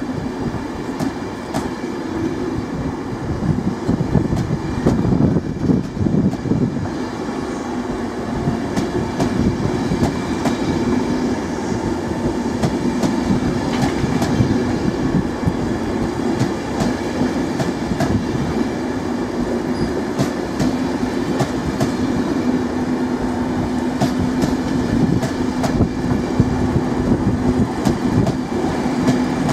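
InterCity 225 Mark 4 coaches departing along the platform, wheels rumbling and clicking over the rail joints. A steady low hum grows louder over the last several seconds.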